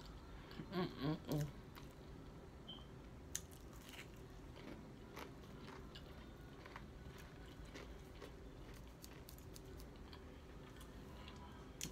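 A person eating fried fast food close to the microphone: quiet chewing with scattered small crunches and clicks. A brief wordless vocal sound comes about a second in.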